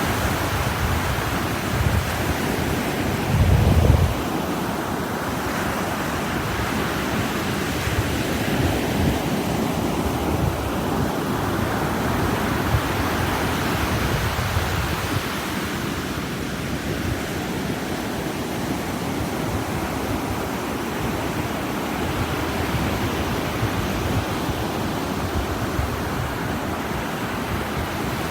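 Ocean surf breaking and washing up a beach, a steady rushing noise that swells and eases. A brief low buffeting, the loudest moment, comes about three seconds in.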